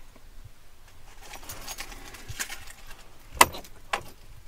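Car keys jangling and rustling, with a sharp click about three and a half seconds in and a smaller one just after.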